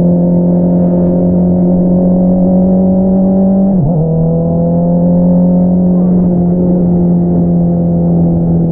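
Honda CBR650R inline-four running through an Akrapovič single-outlet exhaust under steady throttle, its note climbing slowly. About four seconds in the note dips sharply for a moment, as in a quick gear change, then holds steady again.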